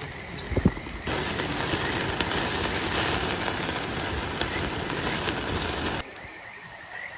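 A meat skewer sizzling on a hot grill: a loud, even hiss that starts about a second in and cuts off abruptly near the end, after a few light clicks.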